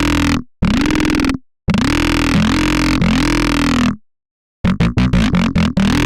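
Vital software synthesizer bass presets being auditioned: dry, gritty, growling bass notes with no drums, each held about a second and cut off into silence, then a quick stuttering run of short notes near the end before another held note.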